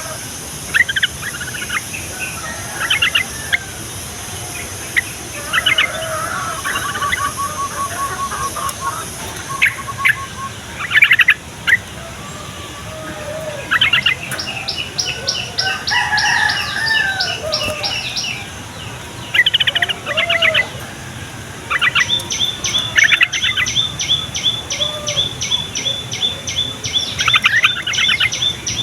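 Trucukan (yellow-vented bulbuls) singing and chirping in repeated bouts of short calls and fast rattling trills, several birds answering one another.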